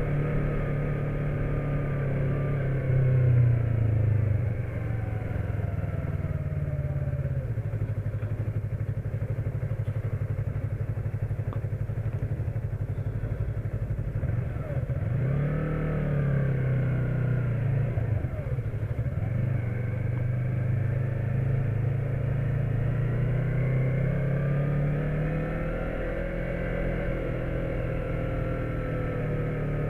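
Motorcycle engine running under way, its pitch falling and rising several times as the rider eases off and speeds up again.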